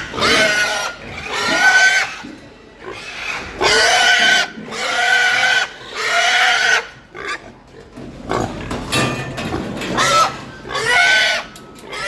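Pigs squealing: a run of about eight loud, shrill squeals, each up to about a second long, one after another with short gaps, typical of pigs being driven and handled while being loaded.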